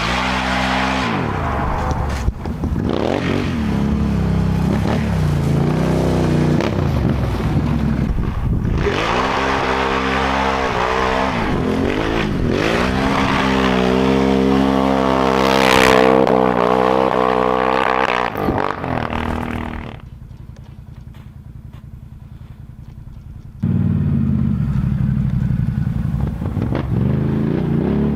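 Can-Am Outlander 1000 ATV's V-twin engine through an RJWC single aftermarket exhaust, revving up and down repeatedly. About two-thirds of the way through it drops to a quieter, steady low rumble for a few seconds, then revs again.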